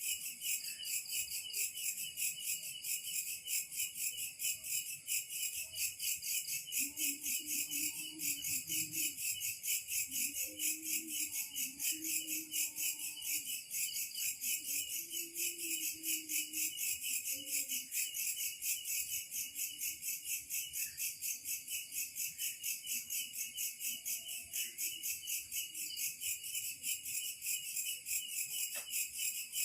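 Insects chirping in a high-pitched, continuous chorus that pulses evenly about three times a second.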